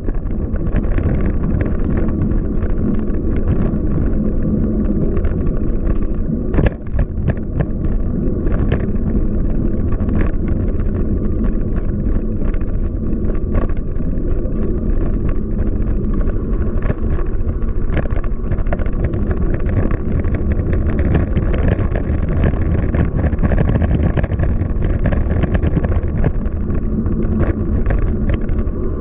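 Steady wind buffeting on the microphone and road rumble from a Scott Speedster CX 20 bicycle being ridden on city streets, with scattered sharp clicks and knocks.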